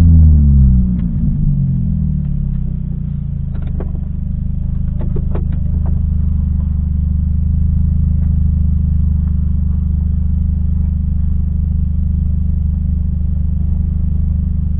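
Mini Cooper S engine dropping in revs as the car slows to a stop, then idling steadily. A few light clicks come in the first half.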